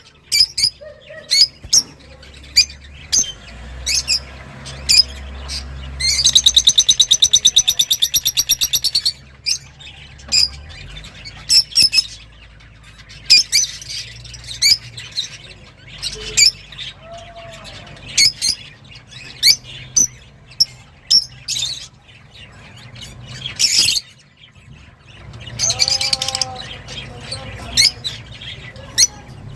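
A caged songbird singing excitedly: short high chirps and whistles in quick bursts, with a fast, even trill for about three seconds near the start, over a faint low hum.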